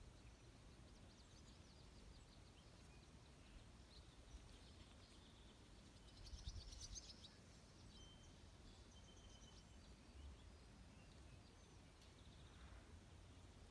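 Faint outdoor evening ambience: scattered small bird chirps and short twitters, with a quick run of high chirps about six to seven seconds in, over a faint low rumble.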